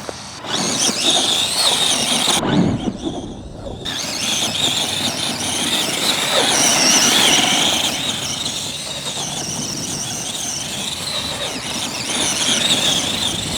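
Electric motor and gear drive of an Arrma Gorgon 1/10 RC monster truck whining as it is driven, the pitch rising and falling with the throttle. The whine drops out briefly about two and a half seconds in, then carries on.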